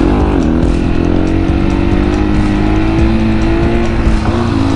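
701 supermoto's single-cylinder engine running under way, its pitch dipping briefly at the start as the throttle changes, then climbing back and holding steady, with wind rumble underneath.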